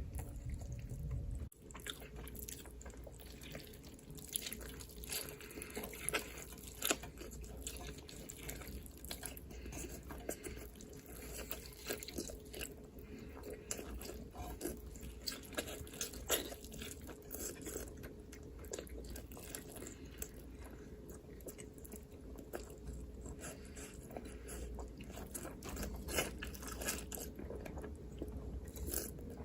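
Close-miked eating: a person biting and chewing food, with frequent irregular crunchy clicks over a faint steady low hum.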